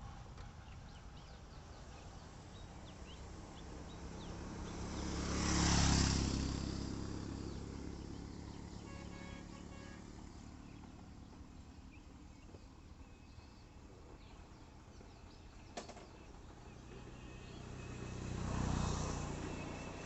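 Two motor vehicles passing by on a road, each growing louder and then fading away: the louder one about six seconds in and a second, quieter one near the end. A single sharp click sounds a little before the second pass.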